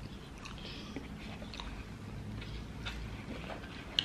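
Close-miked chewing of a mouthful of food, with faint wet smacks and small mouth clicks. There is one sharp click near the end.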